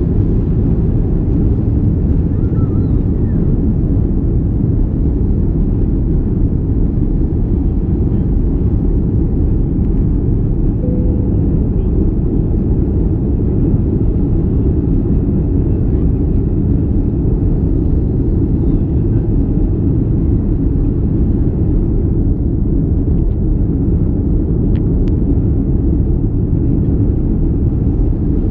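Airbus A330 cabin noise heard from a window seat: a steady, loud low rumble of the jet engines and airflow, holding even throughout.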